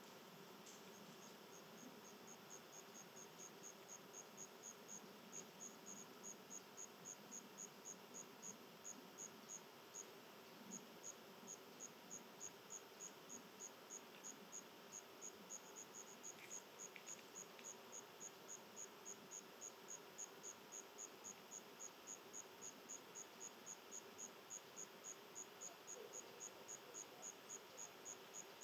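An insect chirping steadily, short high-pitched chirps at about three a second, with a brief pause partway through.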